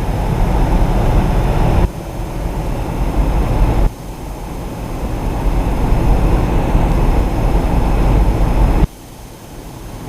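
Car driving at highway speed: a steady rumble of road and wind noise. It drops away suddenly about two, four and nine seconds in, then builds up again each time.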